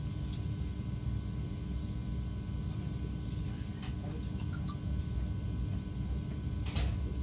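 Cabin noise inside a CRH1A-A high-speed electric multiple unit running along the line: a steady low rumble with a faint constant hum over it. There is a brief knock near the end.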